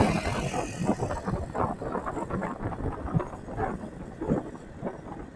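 Motorcycle riding noise: the engine running under way, with uneven gusty noise rising and falling throughout.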